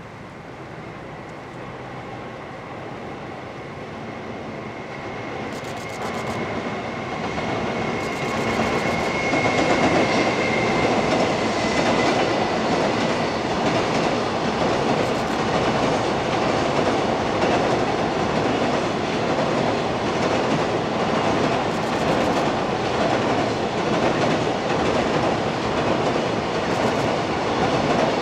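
Container freight train hauled by a JR Freight EF210 electric locomotive approaching and passing over a steel girder railway bridge. The wheel rumble and clickety-clack build over the first ten seconds, then hold steady as the long line of container wagons rolls by. A thin high steady tone is heard for several seconds as the train draws near.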